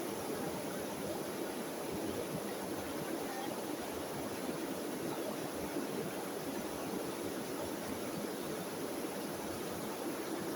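Small river flowing, a steady, even rush of water.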